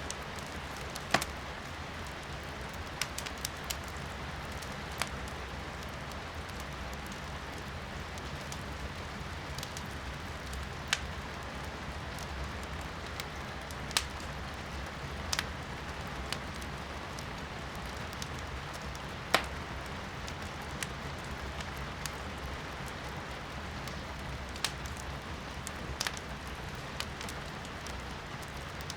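Firewood burning in a fireplace, crackling with sharp, irregular pops every few seconds, over a steady hiss of rain.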